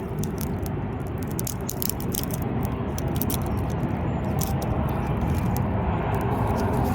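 Freshly lit campfire of twigs and kindling crackling with many sharp pops, over a steady low rumble that grows slightly louder and cuts off suddenly near the end.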